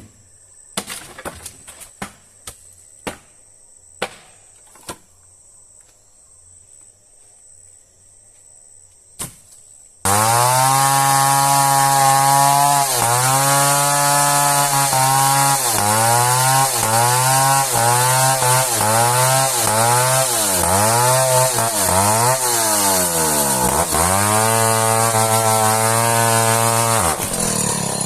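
A steady high insect drone with a few sharp knocks, then a chainsaw cuts in abruptly about ten seconds in, already running loud. The chainsaw's pitch dips and recovers over and over, every second or so, as it saws through hardwood merbau timber.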